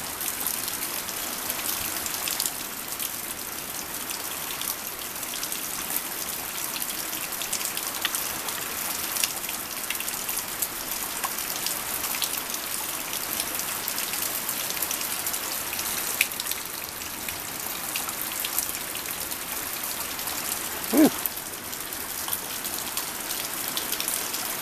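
Steady rain falling, a constant hiss with many separate drop ticks through it. About three-quarters of the way through, one brief pitched sound rises and falls, louder than the rain.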